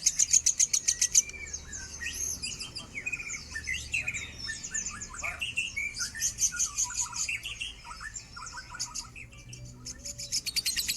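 Lovebird singing: a fast, even run of high chirps at about ten a second, breaking after about a second into a varied twittering of short gliding notes. Near the end the fast run of chirps starts again.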